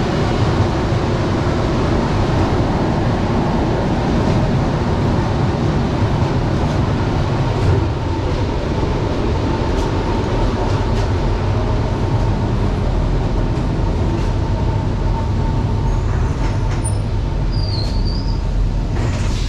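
Passenger train running along the line, heard from inside the carriage: a steady rumble of wheels on the rails, with a few faint clicks and a brief high-pitched squeal near the end.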